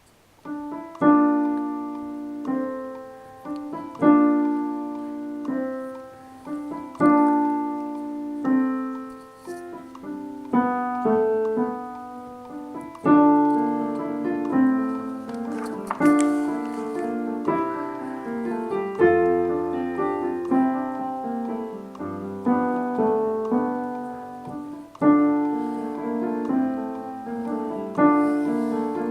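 Piano playing a slow sequence of chords, a new chord struck about every second and a half, each ringing and fading before the next.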